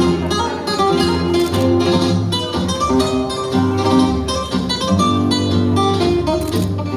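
Flamenco-style guitar music with frequent strummed chords.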